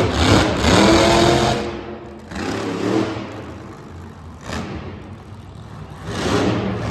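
Monster truck engine revving hard in bursts, rising in pitch through the first second and a half, with another short burst around three seconds and a build again near the end.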